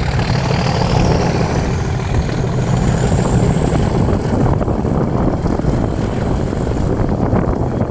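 Class 37 diesel locomotive's English Electric V12 engine running under power, with a dense steady rumble and a turbocharger whistle rising in pitch over the first few seconds, then holding.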